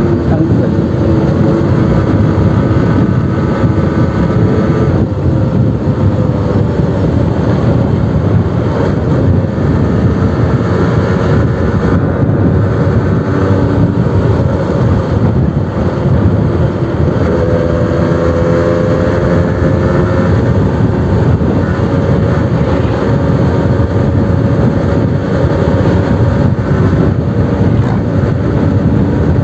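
Suzuki RC100's single-cylinder two-stroke engine running continuously through a new aftermarket exhaust, its pitch drifting gently up and down, over a loud, steady rushing noise.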